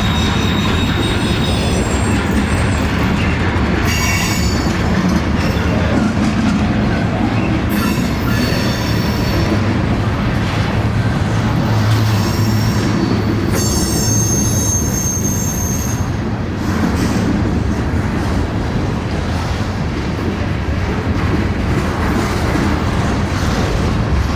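A train rolling past, with a steady rumble of wheels on rails. High-pitched wheel squeal comes and goes over it, strongest a little past the middle.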